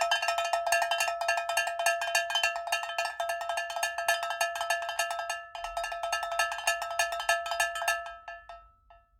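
Rapid, evenly repeated strikes on a ringing metal percussion instrument of one fixed pitch, several strikes a second, breaking off briefly about five and a half seconds in, then dying away near the end.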